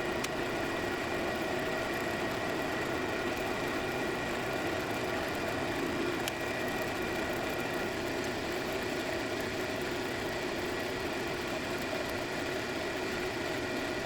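Cylinder-head surfacing machine running steadily, taking a skim cut across a Duramax head's gasket face with a constant, even hum, and a faint tick right at the start and another about six seconds in.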